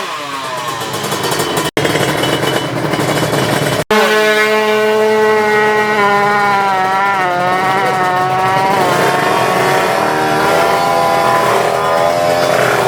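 Tuned Kawasaki Ninja 155 drag bike's two-stroke engine revving hard at high rpm, its pitch climbing and wavering under full throttle, broken by two sudden cuts in the first four seconds.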